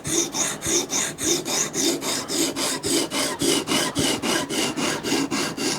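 A sharpening stone rubbed back and forth along the steel edge of a Microtech Combat Troodon tanto blade: a scraping rasp on each pass, in quick even strokes of about three to four a second.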